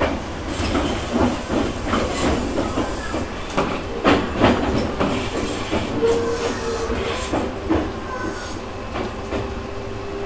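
Tobu 6050 series electric train car (MoHa 6170) running between stations, heard from inside near the crew cab: a steady rumble and hiss with irregular clattering of the wheels on the track, and the car's air conditioning running.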